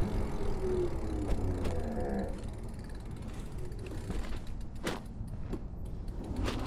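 Lyric Graffiti X electric bike being ridden, with a low rumble underneath. Its motor whine falls in pitch over the first two seconds as it slows, then comes light mechanical clicking and creaking with a couple of sharper clicks near the end.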